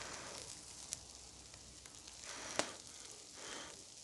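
Pork sizzling on fire-heated river pebbles, with a sharp click about two and a half seconds in.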